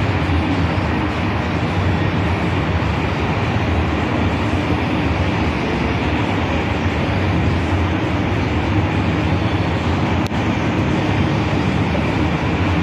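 Steady outdoor rumble with an even hiss over it, unbroken throughout, with one brief click about ten seconds in.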